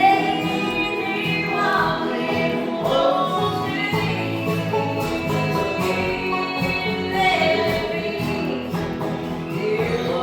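Live acoustic string band playing bluegrass-style mountain music, with guitar and singing.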